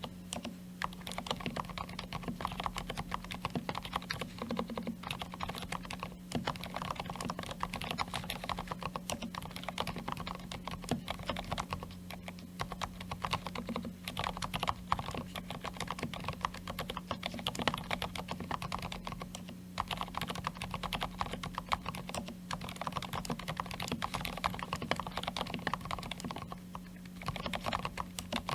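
Continuous typing on a DURGOD K320KR mechanical keyboard with Kailh silent red (low-noise linear) switches: a fast, dense run of keystrokes with a few brief pauses, over a steady low hum.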